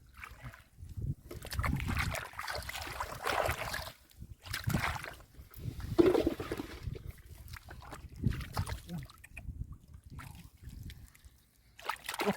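Hands digging and splashing through mud and shallow water, in irregular sloshing bursts with a heavier splash about six seconds in.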